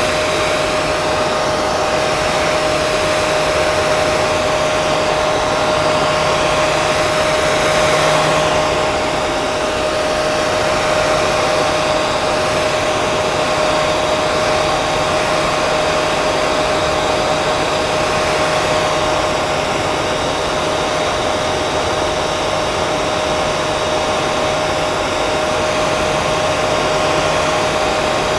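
Hair dryer running continuously: a steady rush of blown air over a constant motor hum.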